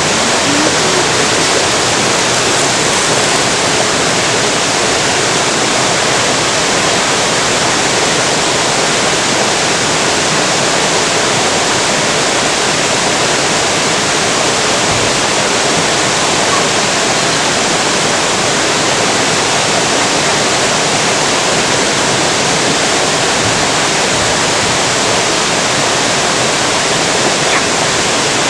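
Steady, loud rushing of flowing river water, an even hiss with no break or change.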